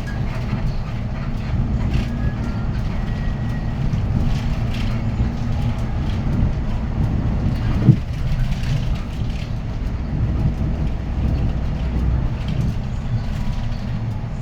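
Inside a Hyundai Green City city bus under way: its D6GB diesel engine and road noise running steadily, with a single short thump about eight seconds in.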